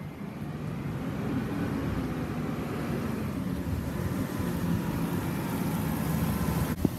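CNG-powered Peterbilt garbage truck's engine running, its pitch rising a little and then holding steady, with a single sharp knock near the end.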